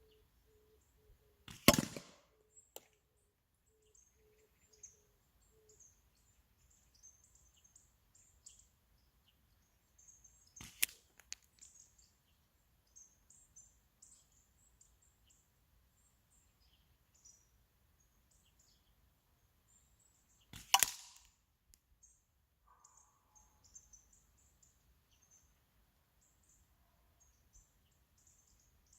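Rubber-band slingshot shots fired at targets 25 m away: three sharp snaps, one about every nine to ten seconds, each with a short ringing tail. Faint bird chirps in between.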